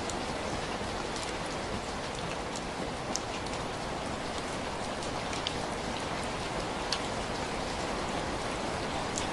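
Steady rain, an even hiss, with a few sharp clicks scattered through it, the loudest about seven seconds in.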